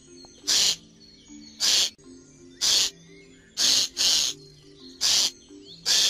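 Eurasian jay giving harsh, rasping screech calls: seven short screeches about a second apart, two of them in quick succession near the middle.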